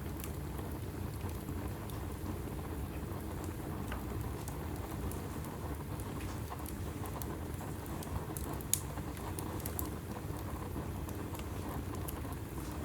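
Wood fire burning in a fireplace: a steady low rumble of the flames with scattered crackles and small pops, the loudest pop just under 9 seconds in.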